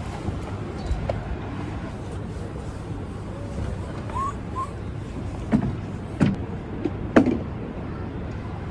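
Strong wind buffeting the microphone as a steady low rumble. A few sharp knocks come in the last third.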